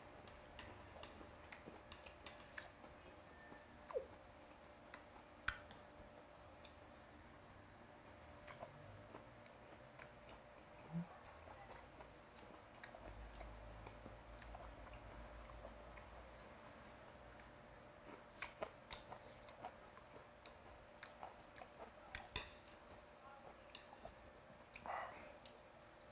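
Faint close-up chewing of raw snakehead sashimi, with scattered light clicks of metal chopsticks against dishes.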